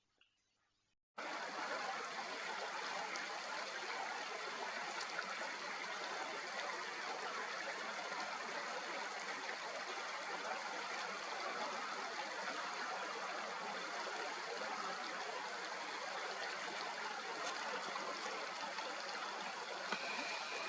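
Fast-flowing stream running with a steady rush of water. It starts abruptly about a second in.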